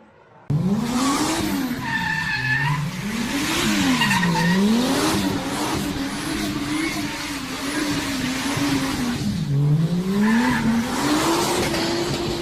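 Car engine revving up and down several times, then running at fairly steady revs, with brief tyre squeals. It starts suddenly about half a second in.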